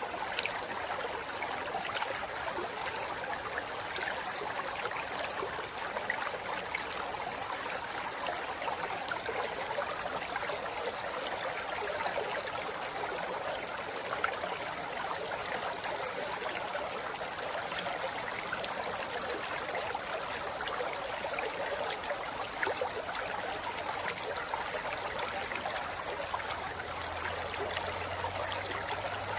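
River water flowing steadily over rocks, an even rushing, trickling sound with no change in level.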